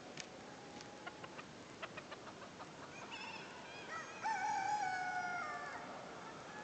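A rooster crowing once: one long pitched call that starts about three seconds in, grows loud about a second later and slides slightly down before it stops. A few short clicks come before it.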